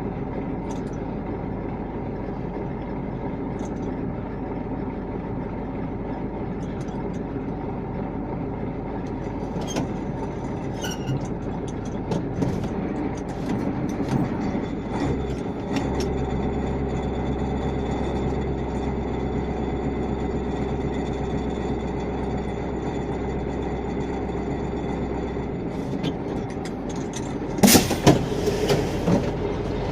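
A vehicle engine running steadily, with a deeper drone that comes in about halfway and drops away a few seconds before the end. Near the end come a few loud knocks or clatters.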